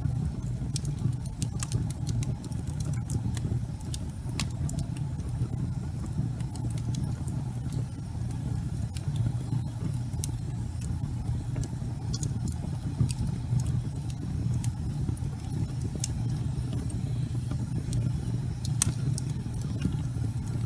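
Logs burning in a fireplace: many irregular sharp crackles and pops over a steady low rumble.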